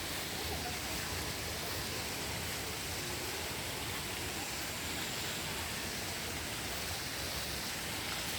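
Steady rush of falling water from a waterfall, an even hiss spread from low to high pitches with no change.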